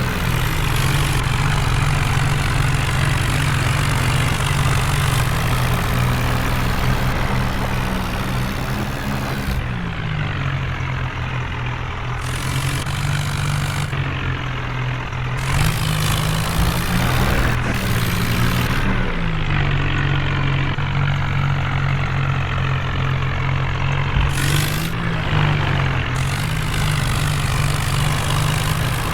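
Heavy diesel engine running hard under load, its pitch rising and falling three or four times as it revs, while a truck stuck in mud is being pulled out.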